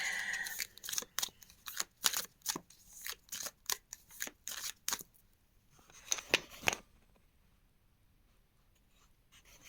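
Tarot cards being shuffled by hand: a run of quick crisp card slaps, about three a second, then a short flurry about six seconds in before the shuffling stops.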